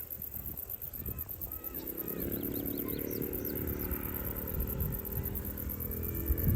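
A race car engine approaching in the distance, its steady note coming in about two seconds in and slowly growing louder, with a few short bird chirps over it.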